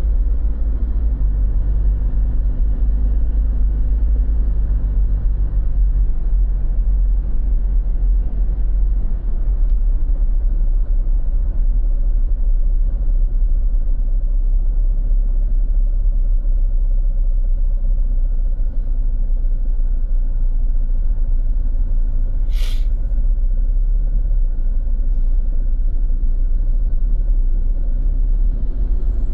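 Steady low rumble of road traffic, with a vehicle engine running through the first several seconds and one short sharp hiss about three-quarters of the way through.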